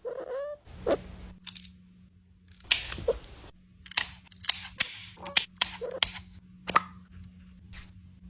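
A string of sharp, irregular clicks and taps over a faint steady hum.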